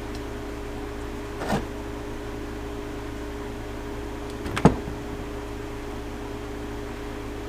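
Steady background hum with two short clicks as small starter-clutch parts are handled on the bench, the louder click about two-thirds of the way through.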